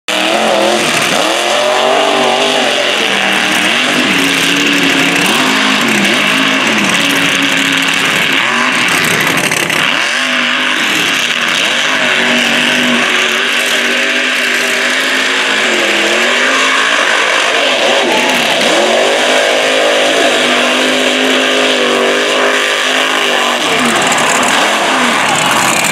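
Mega truck engine revving hard in a mud race, its pitch climbing and dropping over and over as the throttle is worked.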